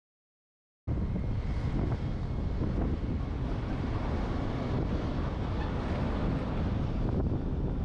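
Wind buffeting the microphone of a roof-mounted GoPro on a moving truck: a steady, heavy low rumble of noise. It cuts in suddenly out of dead silence about a second in.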